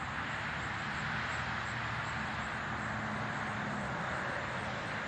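Steady hum of distant road traffic, with a faint low drone underneath.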